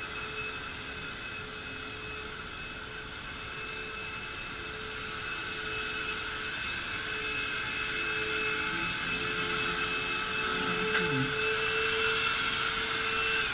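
Vacuum cleaner running steadily with a high motor whine, getting somewhat louder in the second half, with a single click about eleven seconds in; it is switched off at the very end, the pitch starting to fall as the motor spins down.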